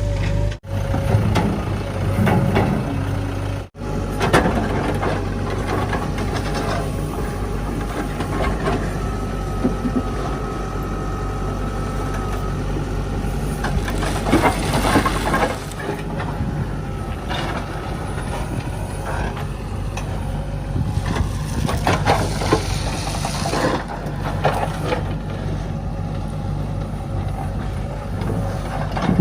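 Backhoe loader engine running under load beside a dump truck, with irregular clatter and knocks of soil being dug and loaded. A steady high whine rises over the engine for a few seconds midway.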